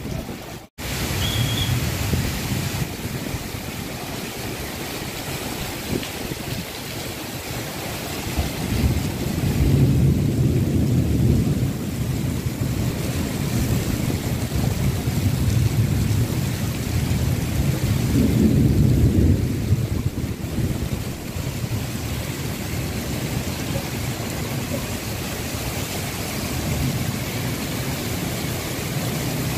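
Heavy rain and strong wind in a tropical storm, a steady rushing noise with deep rumbling swells about ten and nineteen seconds in; the sound drops out briefly less than a second in.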